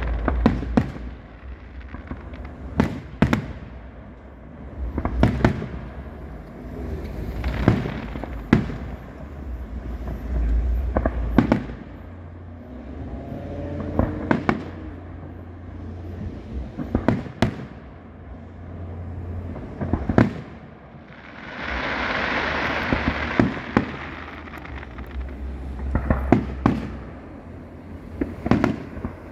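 Fireworks display: aerial shells bursting one after another, sharp booms every second or two over a low rumble. About two-thirds of the way through comes a couple of seconds of dense hissing crackle.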